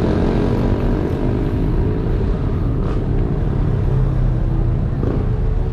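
A motor vehicle engine running steadily on the road, with road noise.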